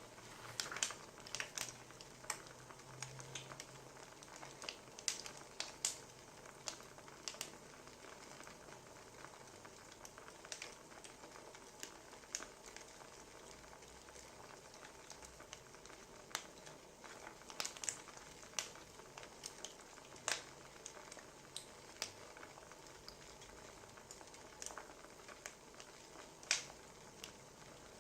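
Wood fire crackling: irregular sharp pops and snaps over a faint, steady hiss.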